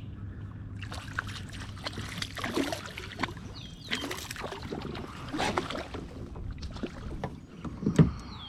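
Water splashing against a kayak, with irregular knocks and rattles from gear on the hull and a louder thump near the end.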